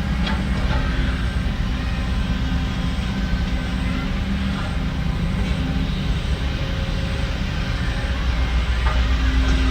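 Diesel engine of heavy earth-moving machinery running steadily under a low rumble, with a few faint clanks.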